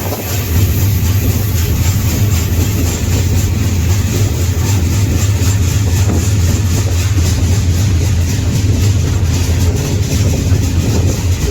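A freight train rolling along, heard from aboard a car: a steady low rumble from the wheels on the rails, with a noisy hiss over it.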